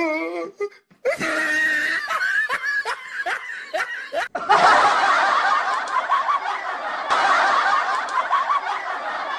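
Laughter added as a sound effect: one voice laughing in short repeated bursts, then from about four seconds in a denser laugh of many voices together.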